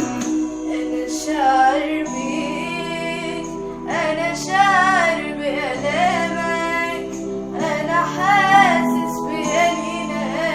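A female voice sings an Arabic Christian hymn in wavering, ornamented phrases over sustained instrumental accompaniment.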